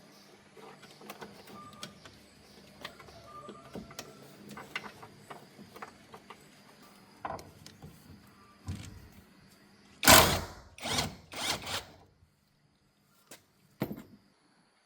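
Scattered clicks and knocks of parts and tools being handled, then three short, loud, hissing bursts in quick succession about ten seconds in.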